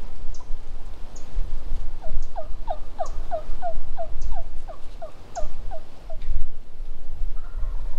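Wild turkey yelping: a string of about thirteen evenly spaced, falling notes, roughly three a second, over a low rumble.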